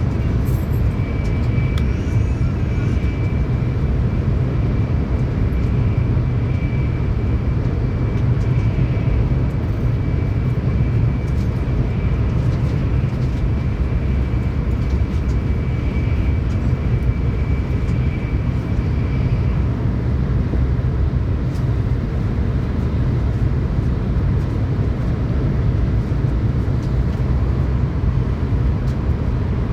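Steady low rumble of a Tokaido Shinkansen train running at speed, heard from inside the passenger car. A faint high steady whine sits over it and fades out about two-thirds of the way through.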